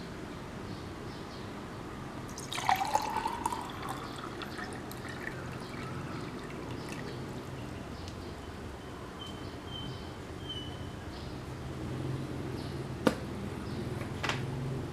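Water poured into a glass about two and a half seconds in, its pitch rising as the glass fills, then a steady faint background with a few sharp clicks near the end.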